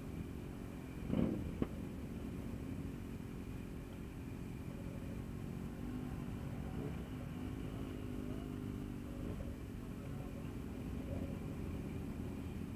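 Motorcycle engine running at low speed, with a low rumble and steady pitch. A brief louder surge comes about a second in, followed by a sharp click.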